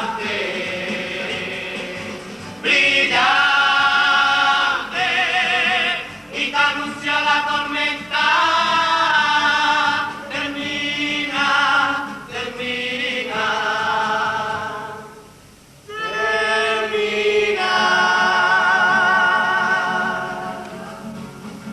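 Carnival comparsa choir singing in several voices, with long held notes that waver with vibrato, in phrases of a few seconds. The singing dips briefly about fifteen seconds in.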